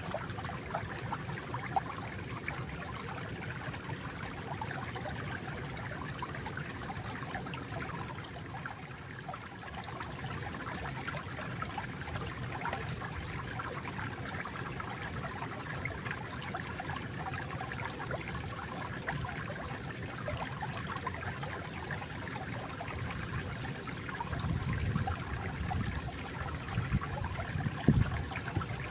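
Water flowing and trickling steadily, like a small stream over stones, with a fuller, deeper burble and a few louder splashes near the end.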